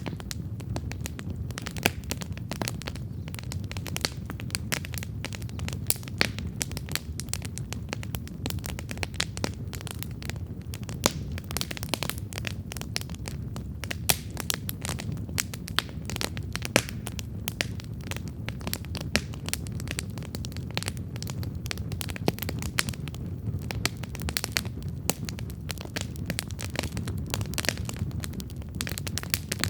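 Wood campfire burning, with dense irregular crackles and pops over a steady low rumble of the flames.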